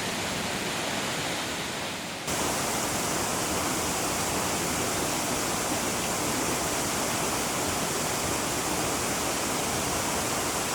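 Steady rush of falling water from a waterfall, a dense even hiss with no bird calls standing out. It jumps louder and fuller about two seconds in.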